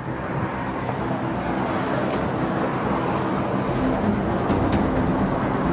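Car engine running steadily, a constant low rumble with a slight rise in level about halfway through.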